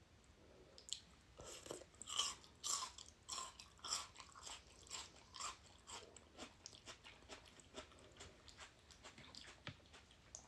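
A person chewing a mouthful of ramen noodles: a quick run of wet mouth clicks and smacks, thinning out and growing fainter in the second half.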